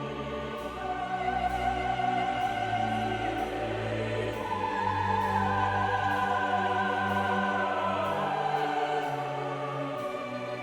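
Slow orchestral film music with a choir singing long, held chords over low strings. The music swells about a second in and stays full.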